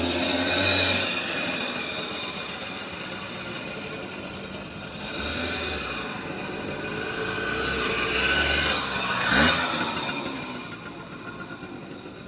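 Small two-stroke Balkan moped engine running as it is ridden, its pitch rising and falling with the throttle, loudest about nine seconds in.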